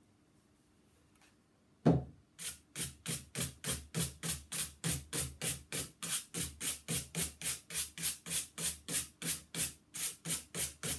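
A knock about two seconds in, then sandpaper rubbing back and forth on a wooden tabletop in brisk, even hand-sanding strokes, about four a second.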